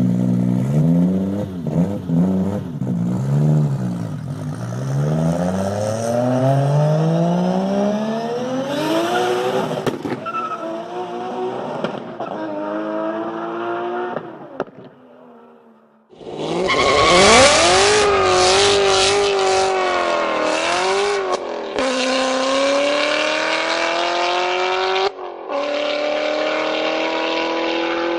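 Car engines revving hard, their pitch sweeping up and down. Partway through, the sound fades out and another engine starts loud, climbing in pitch with a couple of sudden drops as it shifts up through the gears under acceleration.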